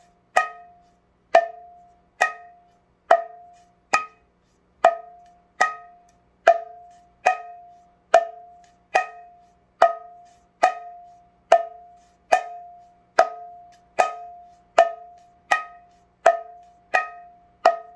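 Mridanga small head played in an even alternating pattern: the snapped 'nak' (chutki) stroke, then an index-finger tap, over and over at a little over two strikes a second. Each strike rings with a clear pitched note.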